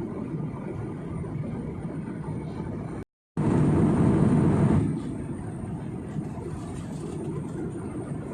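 Steady low rumbling cabin noise inside an airliner. About three seconds in it cuts out for a moment, comes back louder for about a second and a half, then drops back to the steady level.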